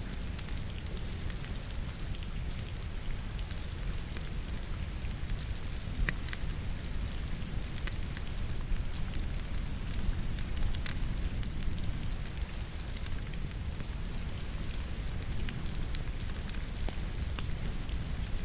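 Firewood crackling in a fireplace, with irregular sharp pops over the steady sound of falling rain and a low rumble.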